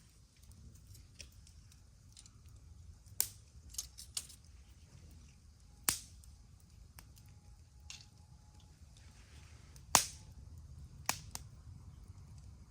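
Campfire wood crackling: scattered sharp pops and snaps at irregular intervals, the loudest about ten seconds in, over a low steady rumble.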